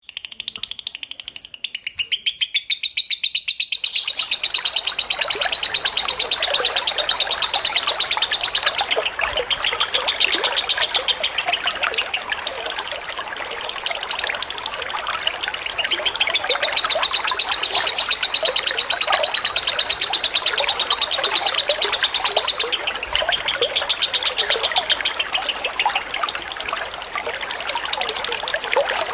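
Lovebird singing a long, unbroken chattering ngekek song of rapid high chirps, at a slow tempo. Trickling water comes in underneath about four seconds in.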